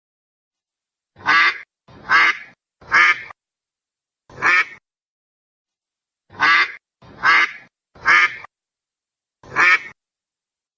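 A duck quacking eight times, each quack about half a second long. The quacks come in two runs of three close together followed by a single one, with complete silence between them.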